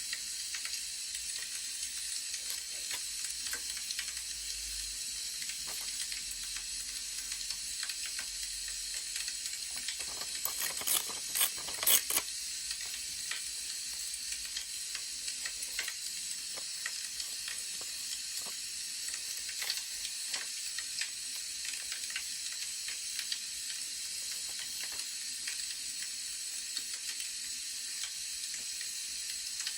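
Crackling wood fire: a steady hiss with many small pops and snaps, and a short cluster of louder clicks about ten seconds in.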